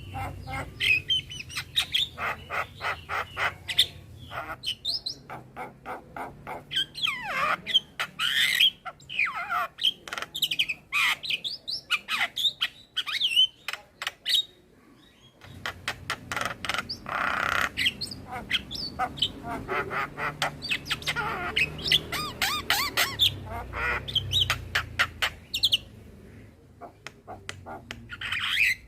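Male Javan myna (jalak kebo) singing a long, varied song of rapid clicking rattles, harsh squawks and whistled notes, with a short pause about halfway through.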